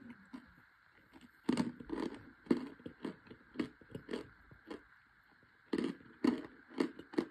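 Chewing chunks of compressed cornstarch: runs of crisp, crackly crunches, beginning about a second and a half in, pausing briefly, then starting again near the end.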